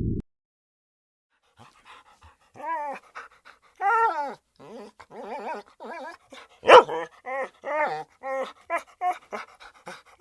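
A dog giving a string of short whining yelps that rise and fall in pitch, coming faster in the second half, with one louder yelp near the middle. A low rumble cuts off abruptly at the very start.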